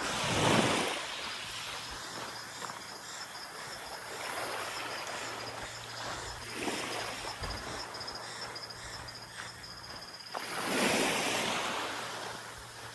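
Small waves washing onto the beach, with two louder swells of surf, one about a second in and one near the end.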